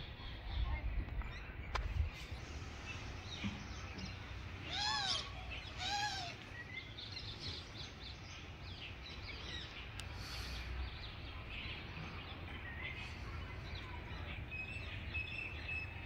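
Birds chirping throughout, many small high calls, with two louder arching calls about a second apart around five and six seconds in. A low rumble sits under the first two seconds.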